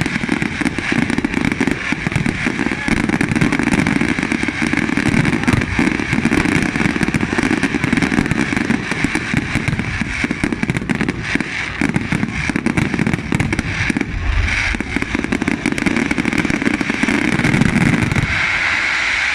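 Fireworks going off in a dense, continuous barrage of crackling and popping bursts, with a deeper boom about fourteen seconds in.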